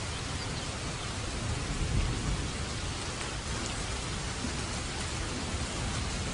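Steady heavy rain, an even hiss of falling water, with a low rumble swelling about two seconds in.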